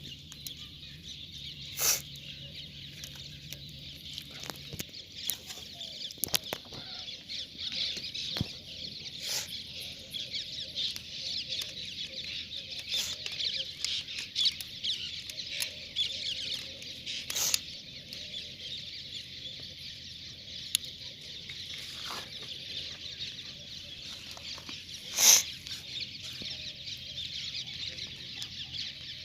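Chickens clucking and chirping steadily, with a few sharp clicks about every eight seconds, the loudest near the end. No motorcycle engine is running.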